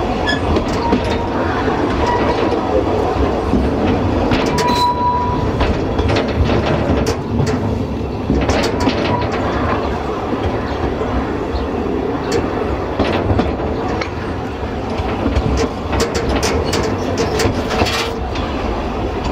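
Narrow-gauge railway carriage rolling along, a steady rumble with irregular clicks and knocks as the wheels cross rail joints, and a short wheel squeal about five seconds in.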